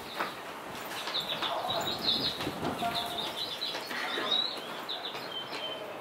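Small birds chirping in quick, repeated short high notes over steady street noise.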